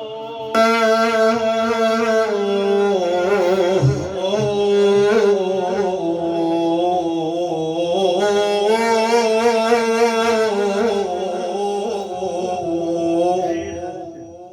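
A male religious praise-singer singing a long, ornamented melodic line in held, wavering phrases with no clear words. It fades away near the end.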